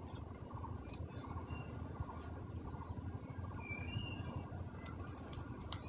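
Birds chirping briefly and sparsely over a steady low rumble, with a few sharp clicks near the end.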